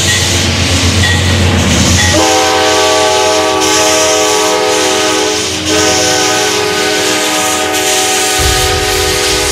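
Locomotive air horn sounding a long chord from about two seconds in, briefly broken midway and then held on, over the rumble of a passing train.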